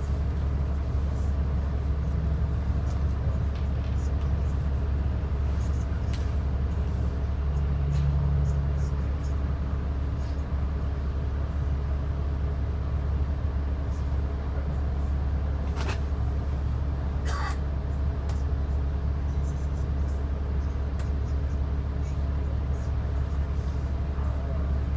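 Inside a moving transit bus: the engine and road noise make a steady low drone, with two brief sharp rattles or squeaks from the cabin about 16 and 17.5 seconds in.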